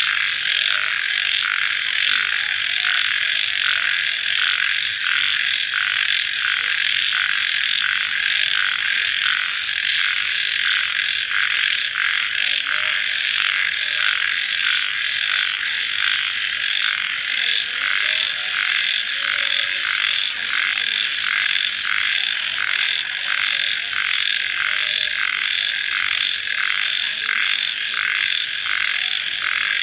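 Dense night chorus of crickets calling just after rain. It is a steady, shrill trilling that pulses evenly about twice a second.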